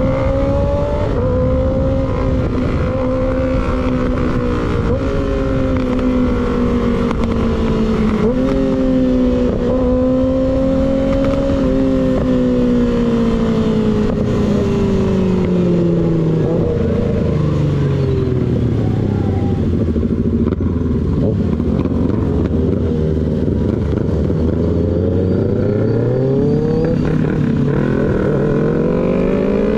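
Sport motorcycle engine through an unbaffled slip-on exhaust, ridden at speed: in the first ten seconds or so the note climbs and drops back three times as it shifts up, then falls away as the bike slows and holds a low, steady note for several seconds before revving up again near the end. Wind rush runs underneath throughout.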